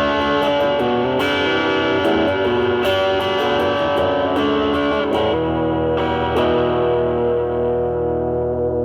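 Semi-hollow electric guitar played through a Nobels ODR-1 overdrive pedal, drive at about 11 to 12 o'clock, into a Marshall Valvestate amp's clean channel, giving a mildly overdriven tone. Quick picked notes and chord fragments, then a chord left ringing from about five seconds in.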